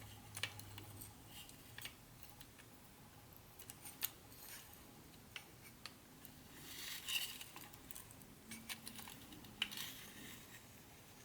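Light, scattered clicks and taps with two short bursts of rustling, from small plastic and cardboard pieces of a model train set being handled and unpacked.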